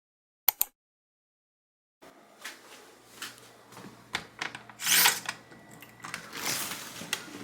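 Two sharp clicks, then a room background with scattered knocks and clicks and two louder rustling swishes, like objects being handled.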